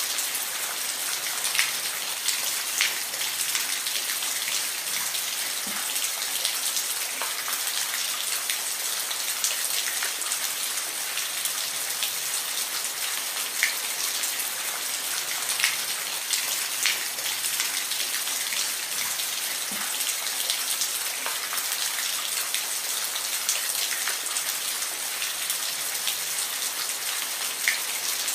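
Steady rain falling, an even hiss with individual drops ticking sharply against a hard surface now and then.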